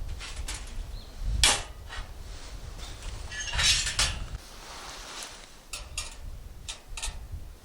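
Camp gear being handled: a series of knocks and clinks, the loudest about a second and a half in and again around four seconds in.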